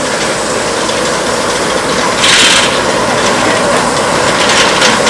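Steady rumble and rattle of a heritage railway train running, with a short burst of hiss about two seconds in.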